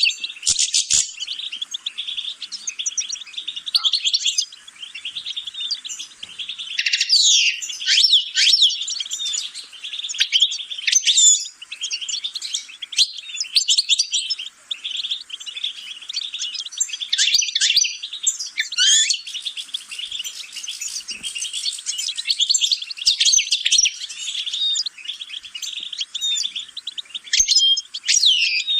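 A songbird singing a long, fast, twittering song of high notes, trills and quick sweeping whistles, with louder phrases coming and going.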